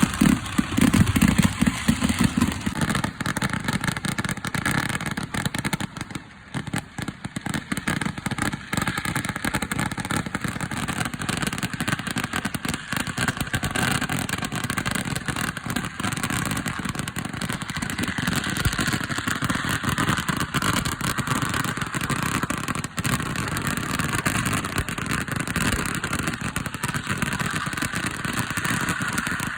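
Temple-festival fireworks barrage: a dense, unbroken crackle of many firecracker explosions running together. It falls off briefly about six seconds in, then carries on.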